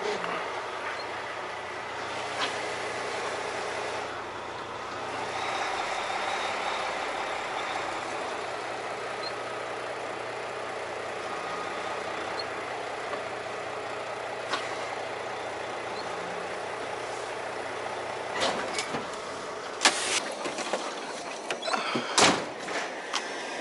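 Semi truck's diesel engine running steadily, heard from the cab, with several sharp knocks and clatters near the end.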